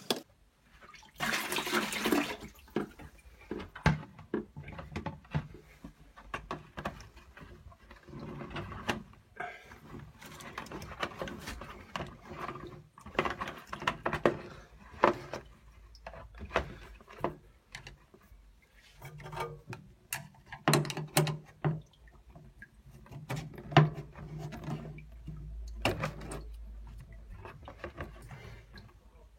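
Leftover water draining and gurgling out of a combi boiler's drained heating circuit into a tray, with many sharp clicks and knocks of tools and metal parts being handled.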